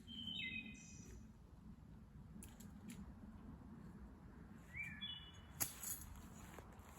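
Two short wild bird calls, each a quick run of stepped chirping notes, one near the start and one about five seconds in, over faint woodland background. A single sharp click comes just after the second call.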